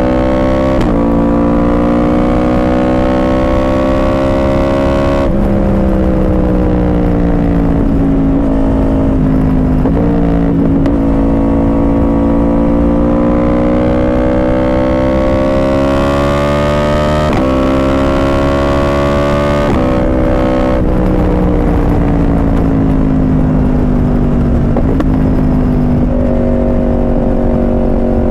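Yamaha R1 inline-four sport bike with a Yoshimura exhaust, heard from on the bike while riding: the engine note climbs as it accelerates, then steps to a new pitch at each gear change, several times over.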